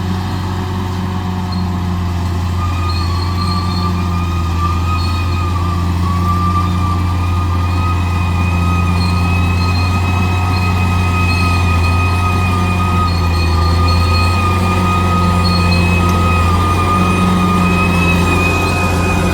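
Bulldozer's diesel engine running steadily under load, with a steady high whine over the deep engine note that grows slightly louder.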